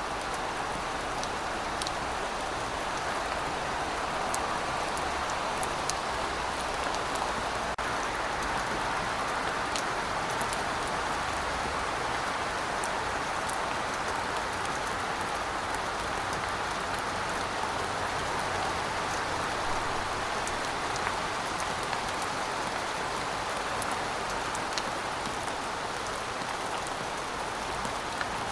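Heavy rain falling steadily, a dense even hiss with scattered sharp ticks of single drops striking nearby surfaces.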